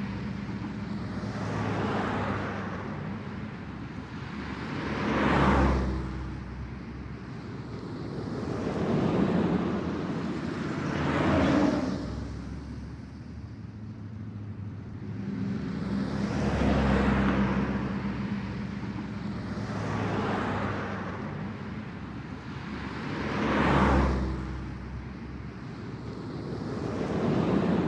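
Ocean waves breaking and washing onto the shore, each one swelling and fading away, about every six seconds.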